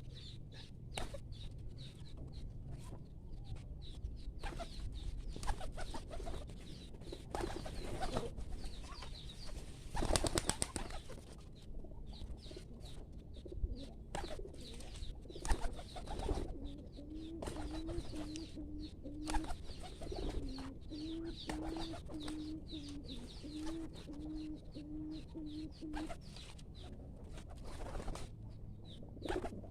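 Domestic pigeons cooing: a long, wavering low coo through the second half, with a burst of wing flapping about a third of the way in and scattered knocks.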